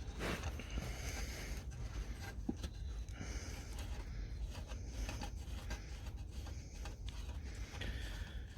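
Faint rubbing and scraping handling sounds, with a small click about two and a half seconds in, as washers are taken off the engine's cover studs, over a steady low rumble.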